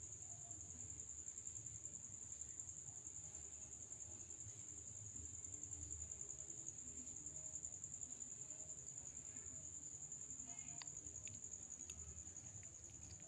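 Crickets chirping in a continuous high, steady trill, with a few faint clicks near the end.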